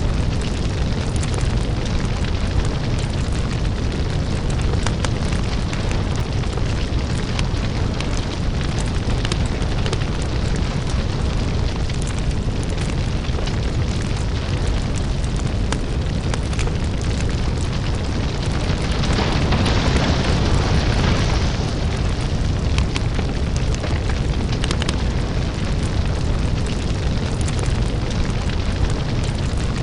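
Lava-fire ambience: a steady deep rumble with dense crackling and popping throughout. A hissing surge rises and fades from about two-thirds of the way in.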